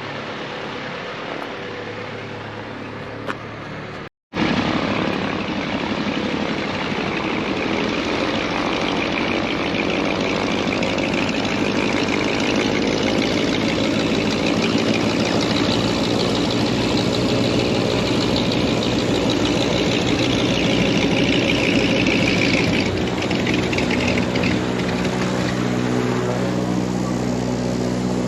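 A propeller aircraft's piston engine running: a steady hum at first, then, after a brief break, a louder, fuller engine-and-propeller sound that changes in tone near the end.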